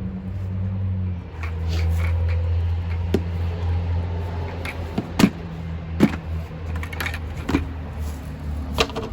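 A few sharp knocks and clunks of a descale kit being handled in a bucket (pump, hoses), about five in all, over a steady low hum.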